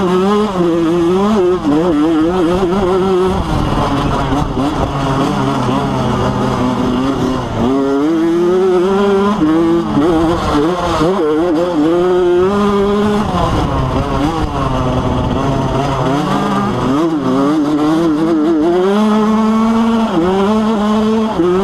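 Motocross dirt bike engine revving hard and constantly rising and falling in pitch as the throttle is opened and closed through a race lap. It drops back sharply several times, as on shifts or braking for corners.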